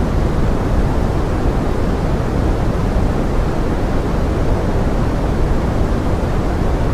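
Pink noise blended with forest rain: a steady, even rushing hiss, strongest in the low end and fading toward the top.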